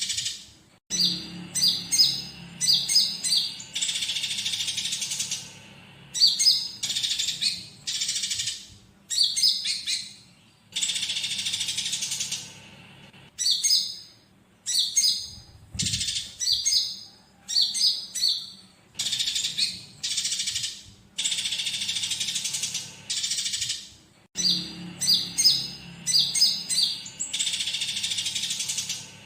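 Songbird training track of a konin's high, sharp chirping phrases, alternating every few seconds with stretches of dense, scratchy chattering. The mix includes the calls of fighting Eurasian tree sparrows.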